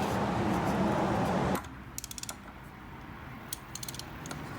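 A steady hiss that cuts off abruptly about a second and a half in, followed by a few short runs of rapid metallic clicking from a ratchet wrench at work on the oil change.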